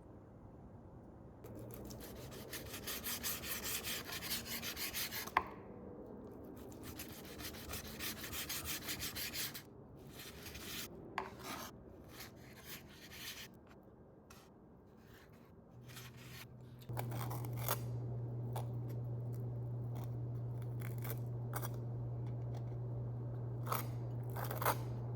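Kitchen food-preparation sounds: two stretches of rapid, rhythmic scraping and rubbing a few seconds long, then scattered clicks and knocks. About two-thirds of the way through, a steady low appliance hum starts and keeps on.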